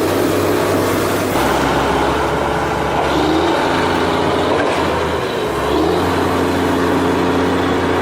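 A motor running steadily, its low hum shifting a few times as the load changes.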